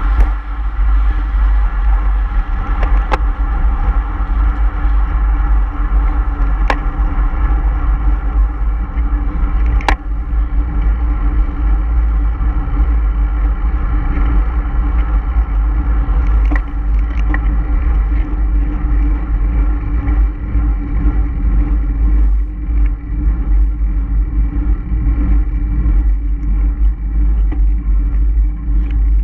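Motor vehicle engine running at a steady cruising pitch, with a heavy low rumble of wind on the microphone and a few faint ticks.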